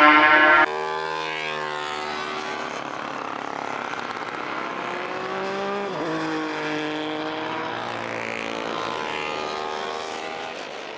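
Classic racing motorcycle engine at high revs: a loud close note cuts off less than a second in to a quieter engine note that sweeps in pitch, drops sharply about six seconds in and climbs again, then fades near the end.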